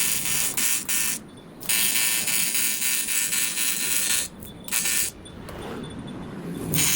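AC TIG welding arc on aluminium, a steady high buzz, struck in runs of a second or two. It breaks off about a second in, briefly after four seconds, and for the last two seconds before striking again at the end.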